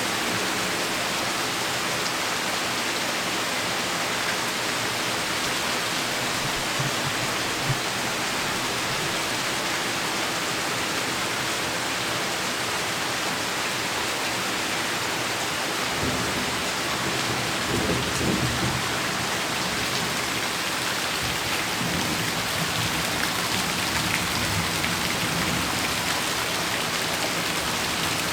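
Heavy rain falling steadily. About sixteen seconds in, a low rumble of thunder builds, is strongest a couple of seconds later, and then rolls on more weakly.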